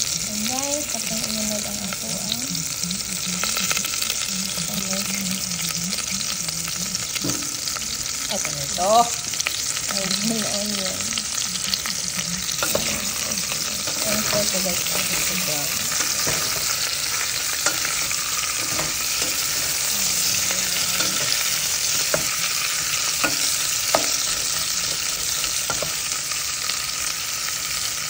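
Pork chunks and sliced onion sizzling as they brown in oil in a stainless steel stock pot, with a steady hiss throughout. A wooden spatula stirs them, making scattered clicks and scrapes against the pot.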